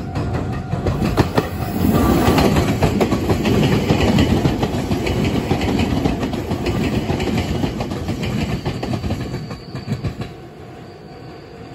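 Meitetsu electric commuter train passing close by, with a heavy rumble and a rapid clickety-clack of wheels over rail joints. The sound grows for the first couple of seconds and fades noticeably about ten seconds in as the train draws away.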